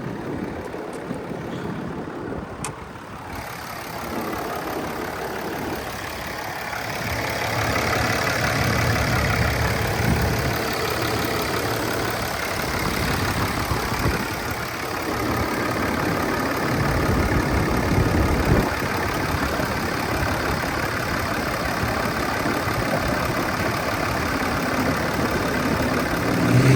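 6.7 L Cummins turbo-diesel of a 2012 Ram 2500 idling steadily with the hood open, its cooling fan pushing a lot of air. After a faint click about three seconds in, the sound gets louder and stays steady.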